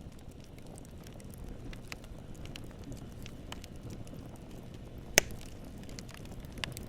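Campfire burning: steady low flame noise with scattered small crackles, and one loud sharp pop about five seconds in.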